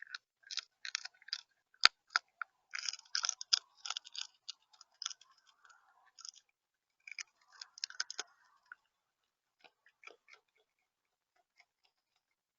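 Close-up crunching and pecking at the seed tray of a bird-feeder camera: irregular sharp clicks and crackles of seed being picked and cracked. There is one louder click about two seconds in, and the sounds thin out and stop near the end.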